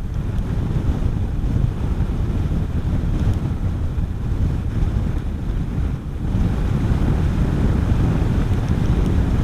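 Wind buffeting a motorcycle rider's microphone at riding speed, a steady low rumbling rush that dips briefly about six seconds in.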